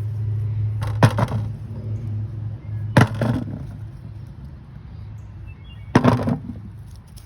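A steady low hum that fades away over the first few seconds, with three sharp knocks about two to three seconds apart and faint high chirps in the background.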